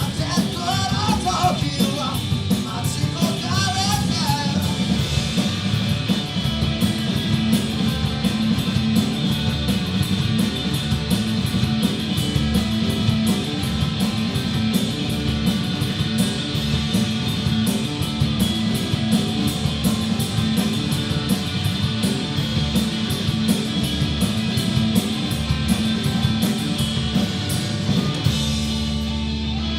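Rock band playing live: distorted electric guitars, bass and drums with steady cymbal hits, and singing in the first few seconds. Near the end the drums stop and a held chord rings on.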